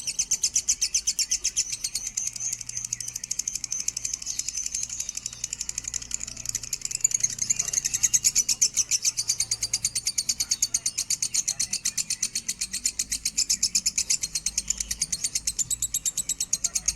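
Lovebird singing a long, unbroken chatter of fast, high-pitched chirps repeated many times a second.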